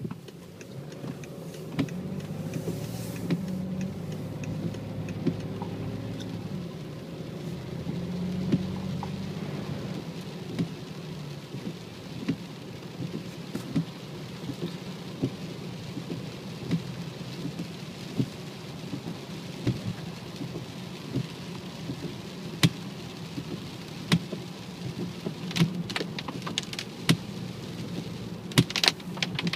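BMW 535d's driveline giving a steady low hum with a fainter whine that slides slowly down in pitch over the first several seconds, a whine the owner links to the gearbox. Irregular sharp clicks come through throughout, thickest near the end.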